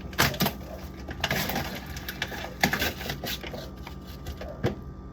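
Scraping at a piece of pepperoni stuck fast to a refrigerator shelf, with sharp knocks and clicks against the fridge's plastic shelving and a scratchy scraping stretch a little over a second in.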